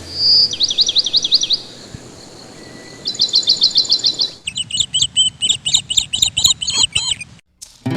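Birdsong: two short runs of quick repeated high chirps, then a longer series of sharper, choppier chirps that cuts off abruptly near the end.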